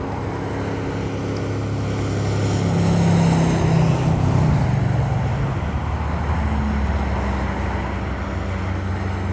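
Diesel locomotives running hard under load on a steep climb: a steady, deep engine drone that swells about three seconds in, then drops to a lower pitch around halfway.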